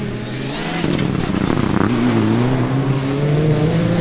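Rally car engine running hard under load; the revs dip briefly about halfway through, then climb steadily.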